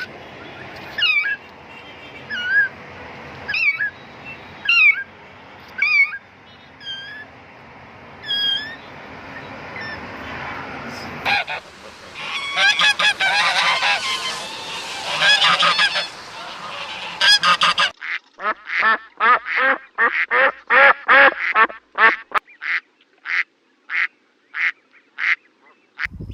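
Domestic geese honking: single honks every second or two, then a flock honking all at once, then a steady run of honks about two a second.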